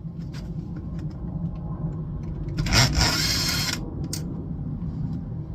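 Plastic monitor casing being handled and worked on: scattered light clicks and knocks, and a scraping rustle lasting about a second, starting around two and a half seconds in, over a steady low background hum.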